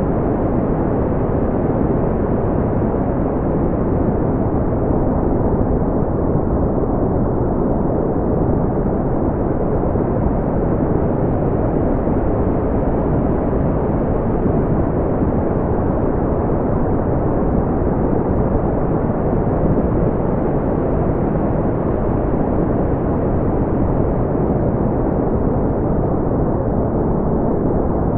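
Brown noise: a steady, deep, even rushing hiss with most of its energy low down and nothing high, unchanging throughout.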